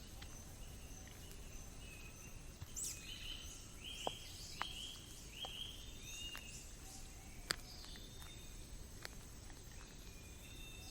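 Faint forest ambience: a bird calling in a run of short, repeated chirps, over a steady high insect drone, with a few sharp clicks.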